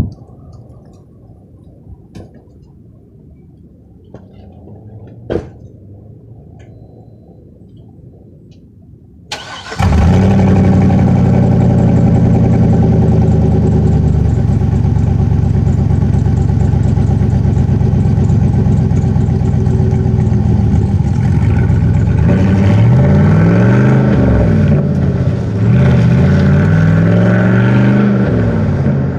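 Chevrolet 6.0 L Vortec V8 with a muffler delete, exhaust dumped under the cab, coming in suddenly and loud about a third of the way in after a faint low rumble. It then runs with a deep, steady note, and near the end its pitch rises and falls several times as it is revved.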